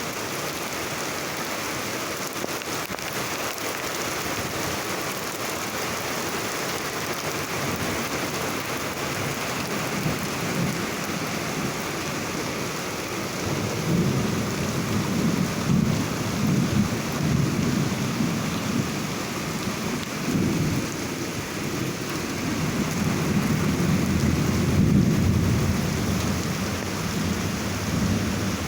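Steady heavy rain falling, with thunder rolling in about halfway through: a low rumble that swells twice, the second time longest, near the end.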